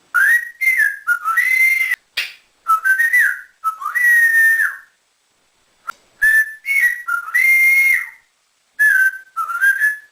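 African grey parrot whistling a short tune: a phrase of rising glides and held notes, repeated about four times with short pauses between.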